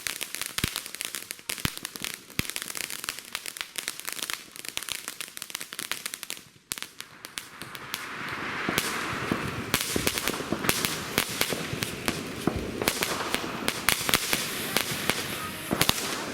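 Consumer fireworks crackling in rapid, dense pops. The crackle dies away briefly about six seconds in, then a fresh burst starts up louder, with a hiss under the crackling.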